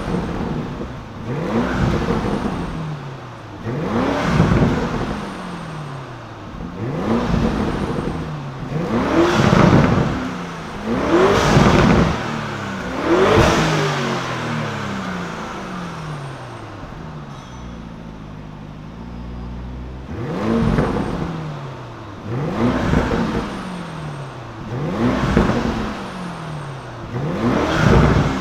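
An engine revved again and again, its pitch climbing quickly and sliding back down about every two seconds, with a lull of a few seconds in the middle.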